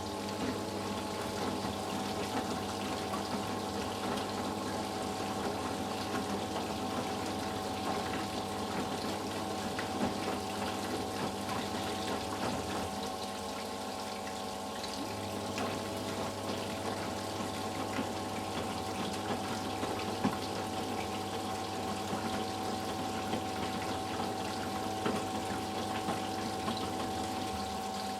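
Eudora Sparmeister 702 washing machine in its rinse cycle: water running and splashing inside the machine over a steady pump or motor hum that shifts slightly about halfway through.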